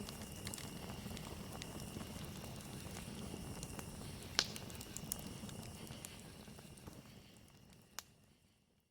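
Campfire crackling and popping, with one sharp loud crack about four seconds in, over a steady high chirr of crickets. The whole sound fades out to silence near the end.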